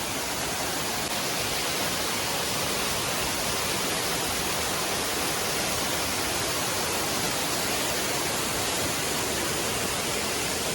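Waterfall rushing: a steady, even roar of falling water close by, with no change in level.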